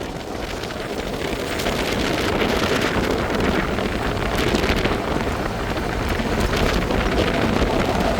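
Loud, steady rushing noise with wind buffeting the microphone, starting abruptly.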